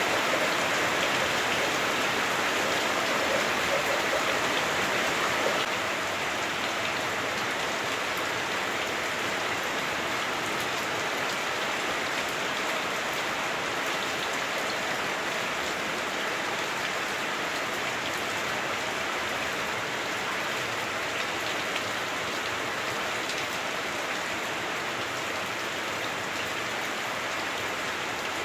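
Heavy rain falling on a house roof, heard from indoors: a dense, steady hiss of drops that eases slightly about six seconds in.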